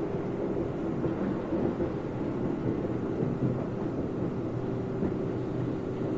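Interior running sound of a Keio 8000 series electric train's motor car: a steady rumble of wheels on rail and running gear with a faint steady tone. The train is running slowly, under about 50 km/h, because traffic is backed up ahead. There is a small knock about five seconds in.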